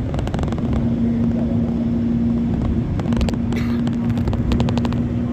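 Passenger train running, heard from inside the coach: a steady rumble with a constant low hum, and rapid clattering of wheels over the rails at the start, in the middle and near the end.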